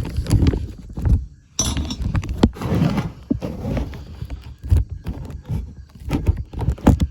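Handling noise on a phone's microphone: irregular knocks, clicks, clinks and rustling as the phone is moved about inside a protective bag.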